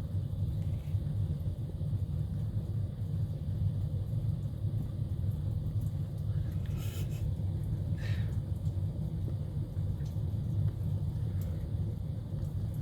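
A steady low rumble with no clear source, and two brief faint higher sounds about seven and eight seconds in.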